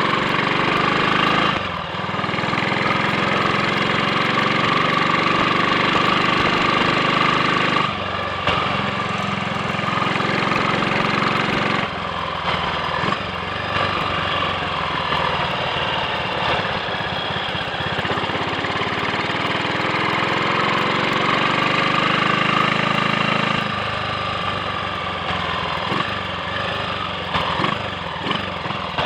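Triumph Sports Cub's single-cylinder four-stroke engine running on the road. The sound drops away briefly about two, eight and twelve seconds in, and the engine pulls up through the revs after each dip. Near the end it eases off and runs less evenly.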